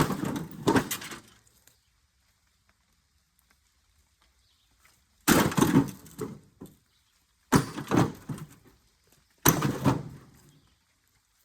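Four loud clattering crashes of junked appliance scrap being struck or thrown, each ringing out for about a second: one at the start, then three more about two seconds apart in the second half.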